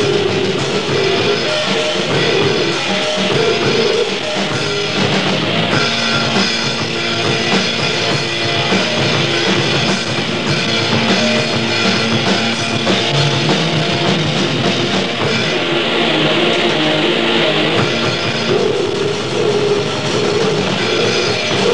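Grindcore band recording: heavily distorted guitars and a drum kit playing a loud, dense, unbroken wall of sound.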